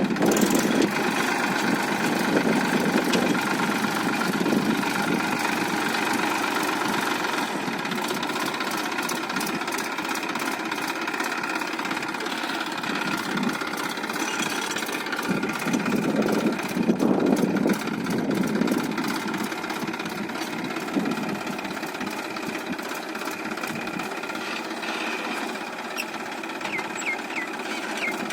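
Massey Ferguson 1035 tractor's three-cylinder diesel engine running steadily, with a couple of louder swells in the middle.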